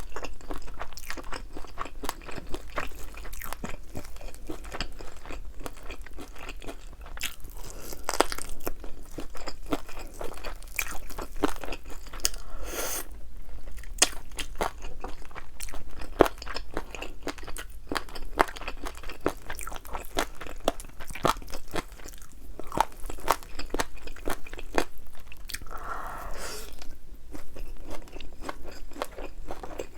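Close-miked crunching and chewing of thin, crispy-battered fried chicken wings, an irregular run of sharp crackles going on throughout.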